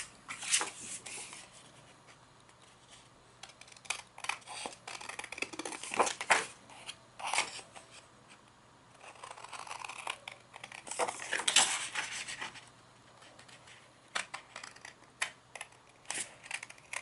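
Scissors snipping through cardstock and paper in irregular runs of short cuts, with the paper rustling as it is turned between cuts.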